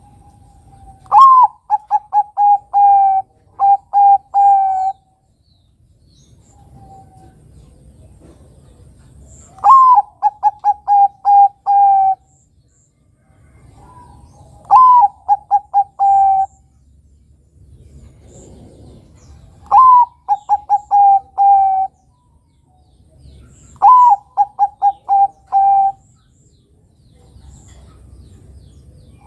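Zebra dove (perkutut) of the Bangkok song type cooing five song phrases a few seconds apart, each a rising opening note followed by a quick run of short, even coos.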